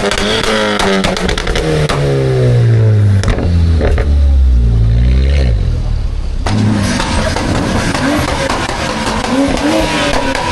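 Car engine revving loudly, its revs falling away over the first few seconds into a deep low rumble. About six seconds in the sound changes abruptly to another engine running with a steady whine over it.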